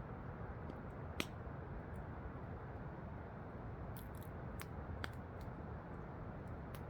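Wood campfire crackling, with a sharp pop about a second in and a few more scattered clicks later, over the steady rush of a waterfall.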